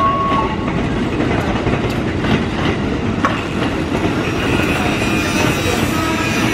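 A train running on the station tracks with a steady rumble, its wheels clacking over rail joints a few times.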